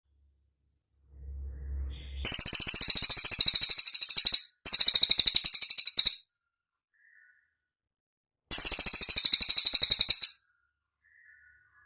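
Cililin bird singing: three rapid, high-pitched trills, each about two seconds long, the first two nearly back to back and the third after a pause of about two seconds.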